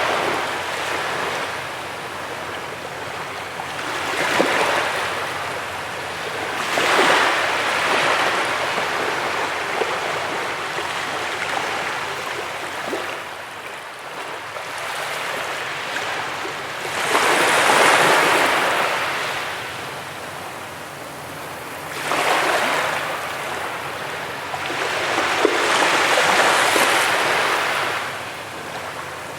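Ocean waves breaking on a beach and washing back, the surf swelling and fading every few seconds, with the biggest surges about four, seven, eighteen, twenty-two and twenty-six seconds in.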